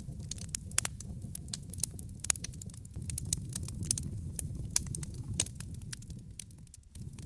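Wood fire crackling in a fireplace, with sharp irregular pops over a steady low rumble that dips briefly near the end.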